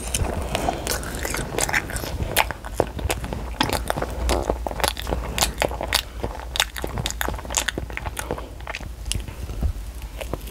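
A young child biting and chewing food right at a clip-on lavalier microphone, giving many quick, irregular crackly mouth clicks, several a second, over a low steady hum.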